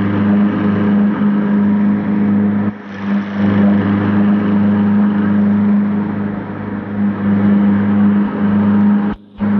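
A large engine running steadily with a deep, even hum. It briefly dips out twice, about three seconds in and near the end.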